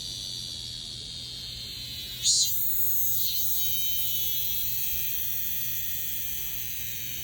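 A cicada singing close up: a steady shrill buzz with a brief louder surge about two seconds in, then slowly fading.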